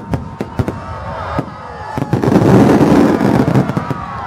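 Aerial fireworks bursting: a few sharp bangs, then from about two seconds in a dense, loud run of overlapping bursts.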